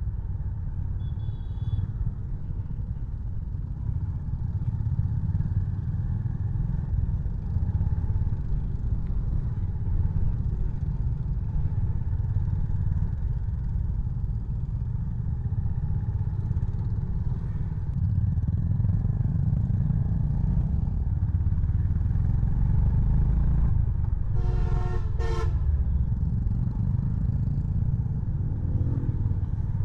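Honda CB350 Highness's single-cylinder engine running on the move, a steady low rumble mixed with road and wind noise. A vehicle horn honks briefly about 24 seconds in, with a shorter horn-like toot near the end.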